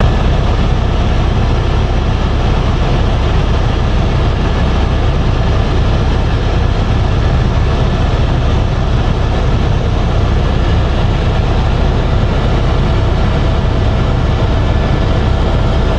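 Tour helicopter in flight: steady, loud rotor and engine noise with a faint steady whine above it.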